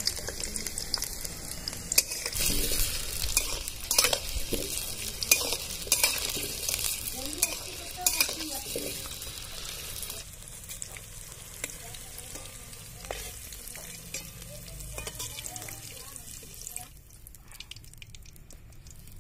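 Potato pieces sizzling as they fry in hot oil in a metal kadai, with a metal spatula scraping and clinking against the pan as they are stirred. The sizzle and scraping ease off about halfway through.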